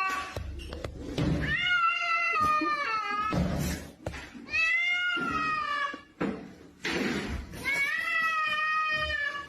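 A cat meowing in long drawn-out calls, three of them about a second and a half each, with short pauses between.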